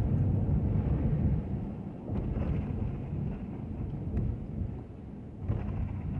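Ford F-250 pickup with a snow plow driving, heard as an uneven low rumble with a few faint clicks; it eases off a little in the second half.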